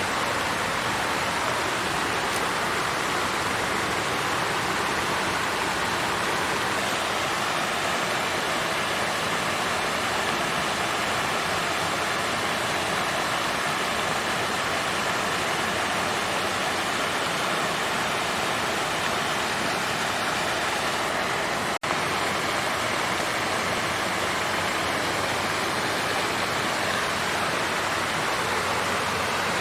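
Water fountain flowing steadily, an even splashing rush of falling water, with a split-second dropout about two-thirds of the way through.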